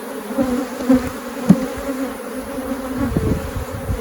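A mass of honeybees buzzing around an open hive, a steady loud hum, with a couple of short knocks about a second and a second and a half in as bees are shaken off a frame into the nuc box.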